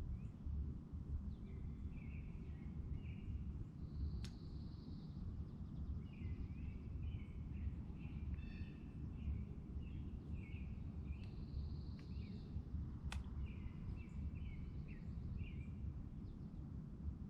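Small birds singing: runs of short chirping notes, and twice a higher trill about a second long, over a steady low rumble.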